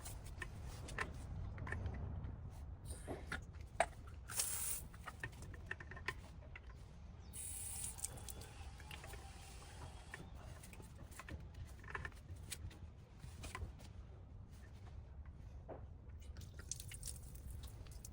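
Water hissing out briefly twice and dripping while a backflow preventer is being tested, with scattered clicks and knocks.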